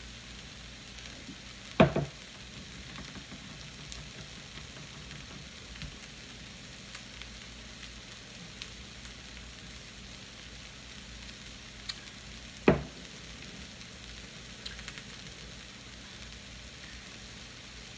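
Chicken, onions and green peppers sizzling in a frying pan, a steady hiss. Two sharp knocks stand out above it, one about two seconds in and one near thirteen seconds.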